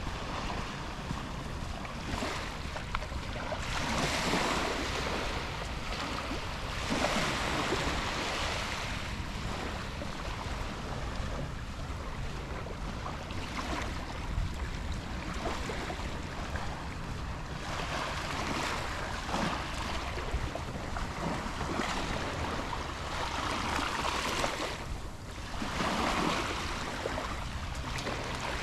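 Rushing water, with wind buffeting the microphone; the noise swells and eases every few seconds.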